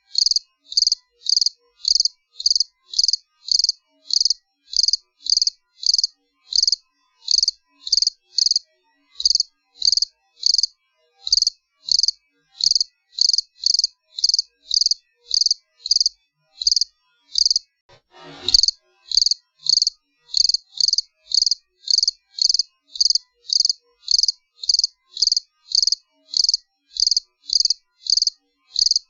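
A cricket chirping steadily in short, high chirps, about two a second with silence between. About eighteen seconds in, a brief bump or knock cuts across.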